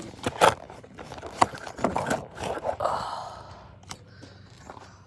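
Close handling noise: a few sharp knocks in the first second and a half, then a stretch of rustling and scraping. It dies down after about three seconds.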